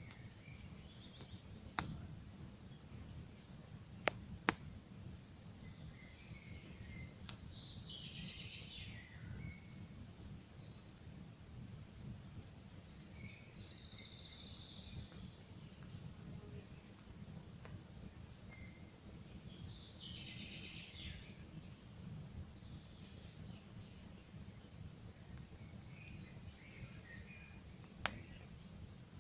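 Campfire burning with a steady low rumble and a few sharp crackling pops, four in all. Small birds chirp in a quick repeating run throughout, with three louder bursts of fuller song.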